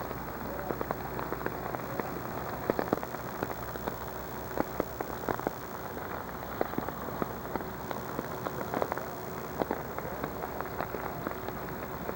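Steady rain falling, with many irregular, sharp drop hits on nearby surfaces over an even hiss.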